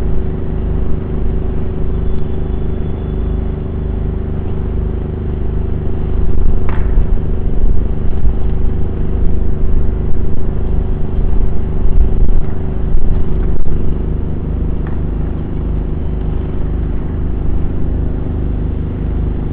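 Vehicle engine idling: a steady low hum with a fast even throb. It grows louder and rougher for several seconds in the middle, then settles back.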